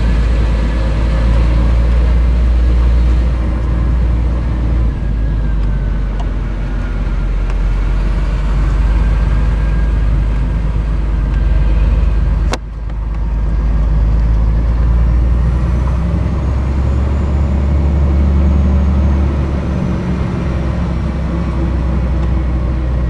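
Scania R420 truck's diesel engine running steadily on a hill road, a loud low drone with a faint wavering whine above it. About halfway through there is one sharp click and a short dip in the engine sound before it picks up again.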